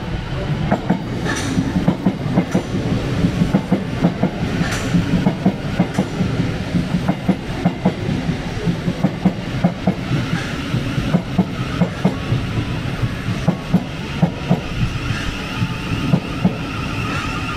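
Thameslink Class 700 electric train running slowly into the platform, its wheels knocking in a rapid, uneven clatter over the track joints above a steady low rumble. From about ten seconds in, a wavering high-pitched tone joins in.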